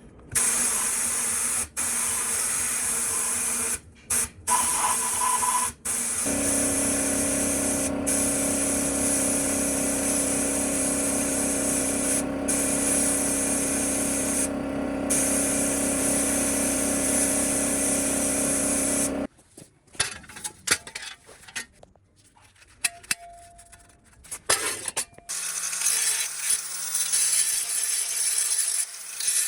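A handheld electric power tool running steadily with a high hiss, its tone shifting lower and steadier about six seconds in, then switched off after about nineteen seconds, followed by scattered handling clatter and a brief quieter run of a tool near the end.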